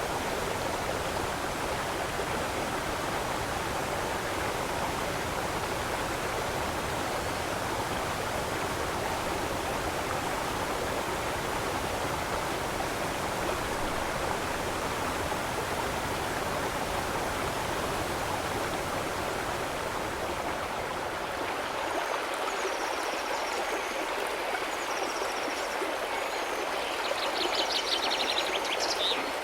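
Stream water flowing with a steady rushing sound; past the middle the deeper part of the rush thins out. Short high chirps come in from about two-thirds of the way through, with a quick rattling trill near the end.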